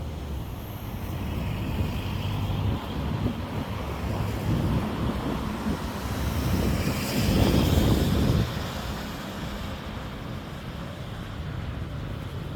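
Street traffic: a steady low rumble of passing vehicles. One vehicle passes close, loudest about seven to eight seconds in, and then the sound drops away.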